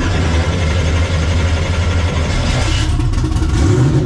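Twin-turbo 427 cubic-inch Dart-block V8 running steadily, heard from inside the car's cabin. The engine speed rises a little about three seconds in.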